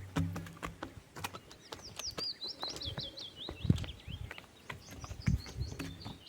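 A songbird singing two quick runs of short, high, falling notes. Under it, a horse walks, its hooves clicking and thudding irregularly.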